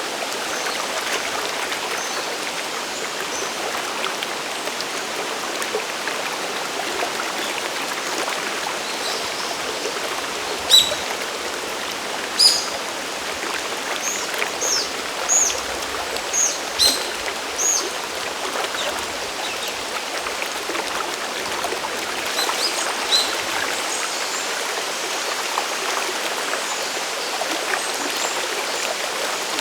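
Steady rush of falling and running water at a mountain waterfall. A bird calls over it with a series of short, high chirps in the middle, and a few fainter ones later.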